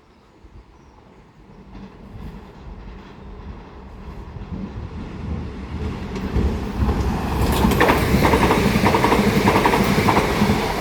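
A Class 377 Electrostar electric multiple unit approaching, its rumble growing louder from about two seconds in. Over the second half its wheels clatter rhythmically over the pointwork.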